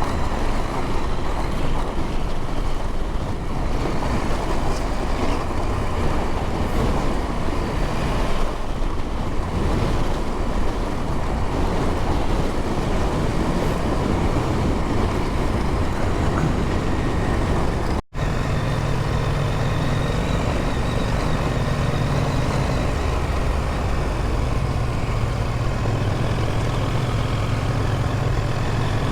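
Adventure motorcycle engine running steadily under way off-road, mixed with wind noise; the sound breaks off for an instant about eighteen seconds in, then carries on with a steadier low engine note.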